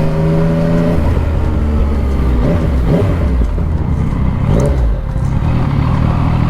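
Motorcycle engine under way. Its steady note rises slightly, then drops to a low rumble about a second in and stays low, with wind noise.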